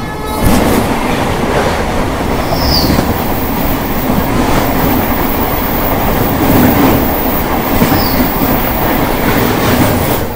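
Passenger train running at speed: a loud, steady rumble with the wheels clattering over the rail joints, and two brief high squeaks.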